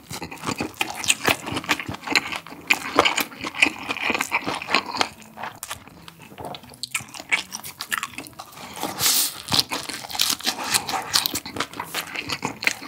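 Close-miked chewing of a perilla-leaf wrap filled with bibimmyeon noodles and grilled pork belly: many quick, sharp, wet mouth clicks and smacks, breaking off briefly about halfway through before a new mouthful starts.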